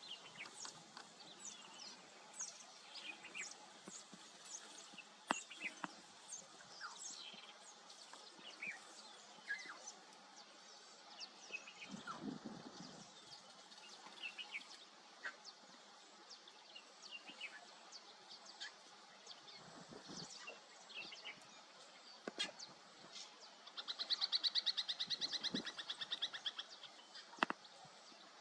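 Wild birds calling: many short, high chirps scattered throughout, with a fast pulsing trill lasting about two seconds near the end.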